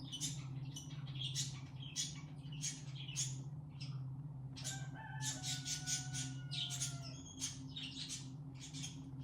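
Birds chirping repeatedly in short high calls over a steady low drone from 528 Hz meditation music, with a couple of longer sliding calls about halfway through.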